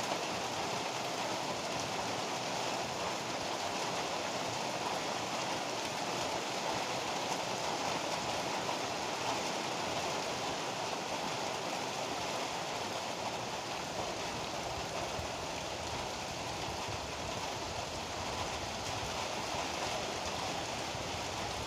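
Heavy rain pouring steadily, an even, unbroken hiss with no thunder or single impacts.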